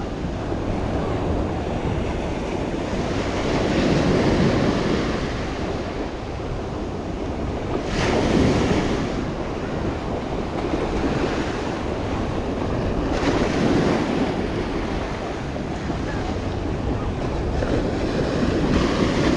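Ocean surf: waves breaking and washing in, surging about every four to five seconds, with wind rumbling on the microphone.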